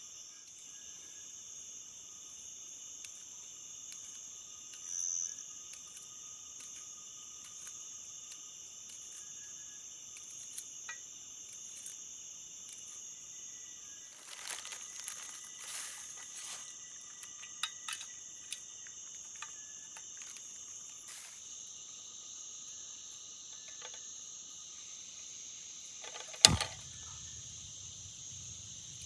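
Steady chorus of crickets and other night insects in the forest, several high-pitched trills sounding at once. Brief rustling a little past the middle, and one sharp click near the end.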